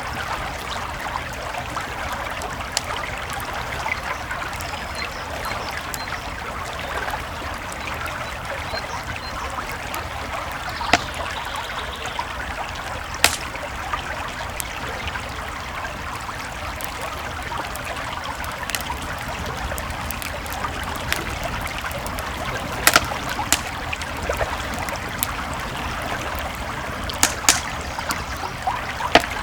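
A creek flowing steadily, with a wood campfire crackling over it and giving a few sharp pops: one about halfway through and a cluster near the end.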